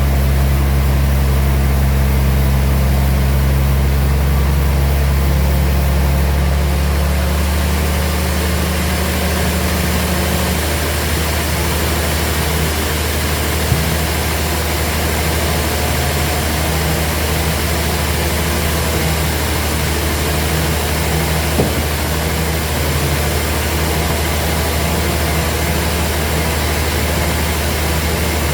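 Sawmill machinery running with a steady low hum. About seven seconds in its tone shifts and a hiss grows louder, and two brief knocks come later.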